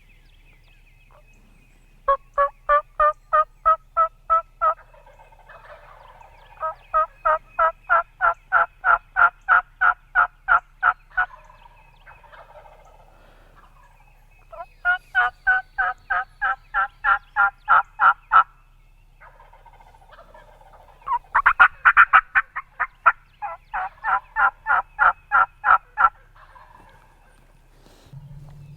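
Turkey yelping: four long runs of evenly spaced yelps, about three or four a second, each run rising slightly in pitch, with short pauses between runs.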